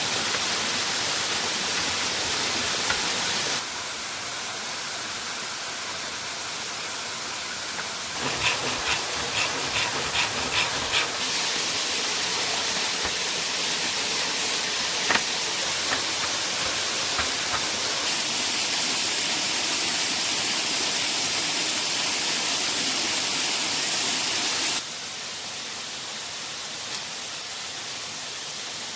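Waterfall rushing as a steady hiss of water noise, jumping abruptly in level three times. A little over a quarter of the way in comes a quick run of about seven sharp knocks, two or three a second, and one more knock about halfway through.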